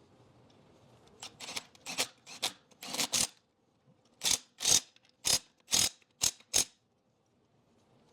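About a dozen short scraping strokes, some coming in quick pairs, as rusty lug nuts are worked onto a wheel's studs.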